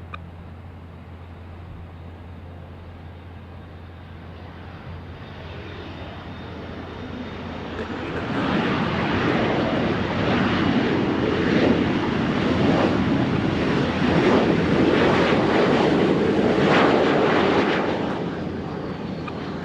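Aircraft engine noise as a plane passes close by: it swells over a few seconds, stays loud for about ten seconds, then fades near the end.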